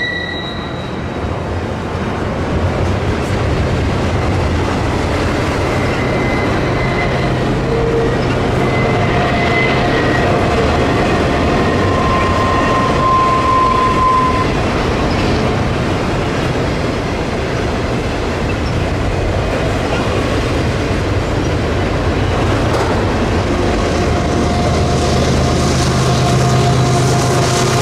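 A train rolling past at close range: a steady rumble and clatter of wheels on rail, with a few short squeals of wheel flanges. A low, steady diesel locomotive drone is heard in the first half and again near the end.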